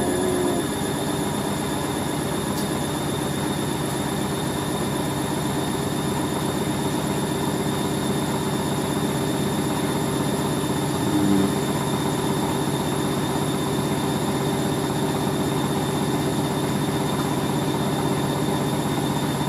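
Hoover A3060 washing machine spinning a towel load at a steady speed, its motor giving a steady whine; the load is badly out of balance.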